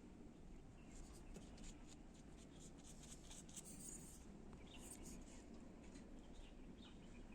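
Faint, quick scratching strokes of a paintbrush on the painting surface, many short strokes in irregular succession over quiet room tone.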